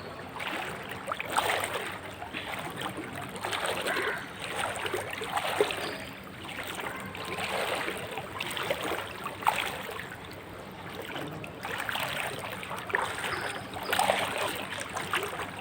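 Legs wading through standing floodwater, a slosh and splash with each stride, coming unevenly every second or two.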